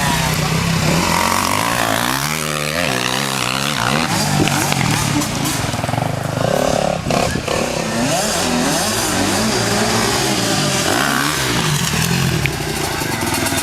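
85cc two-stroke motocross bike engines revving hard, their pitch climbing and dropping again and again as they accelerate and shift around the track.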